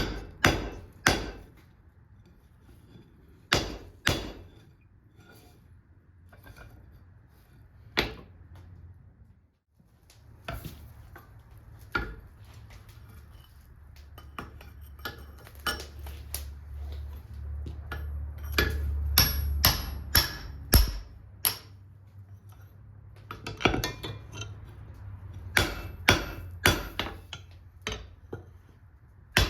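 Hammer blows on steel bar stock at the anvil, sharp ringing strikes in irregular groups with pauses between. A low steady hum runs underneath through the middle, stopping about two-thirds of the way in.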